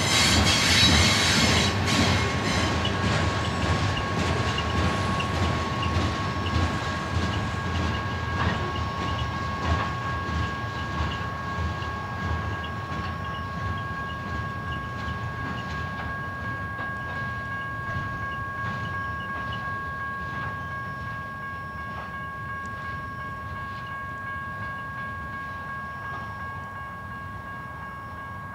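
Freight cars of a BNSF manifest train rolling away, wheels clicking over the rail joints in the first few seconds, the rumble fading steadily as the tail end recedes. A steady high-pitched tone carries on underneath throughout.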